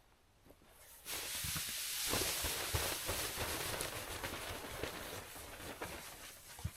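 Air hissing out of an inflatable sleeping pad's valve as it is pressed flat for packing, starting suddenly about a second in and slowly fading, with crinkling of the pad's fabric and a sharp click near the end.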